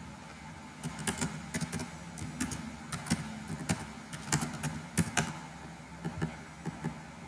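Computer keyboard being typed on: a run of quick, irregular key clicks, densest in the middle, thinning to a few scattered clicks near the end.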